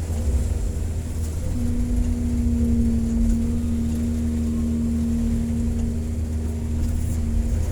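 Excavator diesel engine running steadily with a deep hum and a steady whine that grows louder about a second and a half in, then eases near the end.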